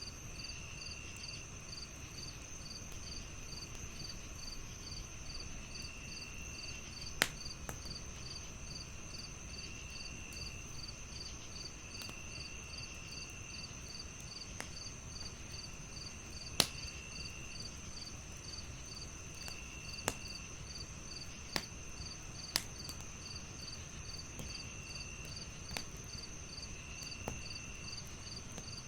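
Crickets chirping in even pulses, about two to three a second, over a continuous high insect drone, with another insect trilling on and off. A wood fire crackles underneath, with occasional sharp pops, the loudest about 7 and 17 seconds in.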